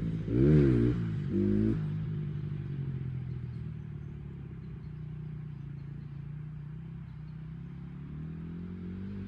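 Dirt bike engine revved in two quick blips, then running steadily at a lower speed, its pitch climbing slightly near the end.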